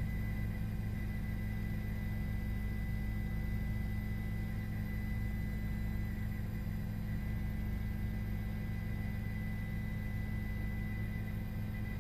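Steady low drone of a helicopter in flight, with a faint high steady whine over it.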